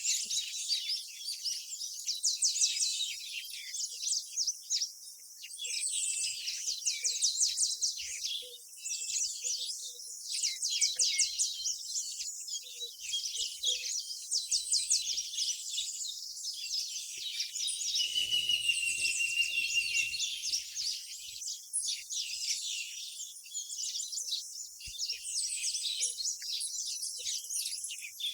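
Small birds chirping and trilling, with many overlapping runs of rapid high-pitched notes.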